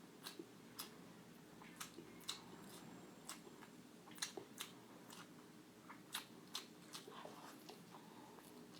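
A person chewing and biting food close to the microphone: faint, irregular sharp crunching clicks and mouth sounds.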